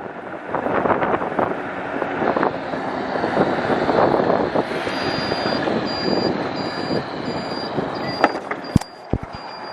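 Wind and road noise rushing over the microphone on a moving e-bike. From about halfway a high electronic beep starts repeating evenly, about one and a half times a second. A few sharp clicks come near the end as the rushing drops.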